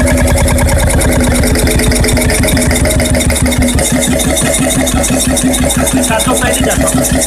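Old 12 hp two-stroke diesel engine, built by the Freris works on Syros in the early 1950s, running steadily with a loud, regular beat of firing strokes.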